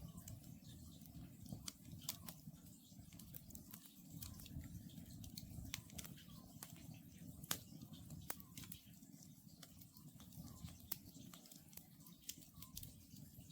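Wood campfire crackling, with frequent sharp pops and snaps over a low steady rumble of the burning logs. An Oriental scops owl calls faintly in the distance, short hoots repeated every second or two.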